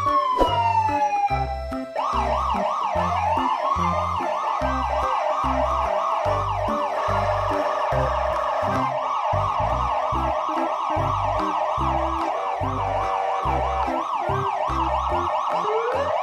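Siren wailing over background music with a steady beat: one slow rise and fall at the start, then a fast warble sweeping up and down several times a second from about two seconds in, and a slow rising wail again at the end.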